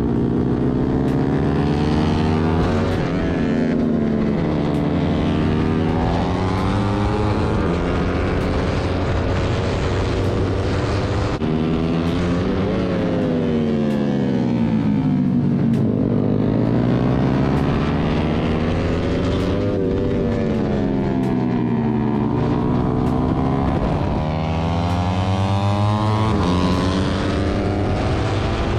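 Yamaha R15 V3's single-cylinder engine, heard from onboard at track speed: its pitch climbs as it accelerates and falls away several times as the rider brakes for corners, over a steady rush of wind.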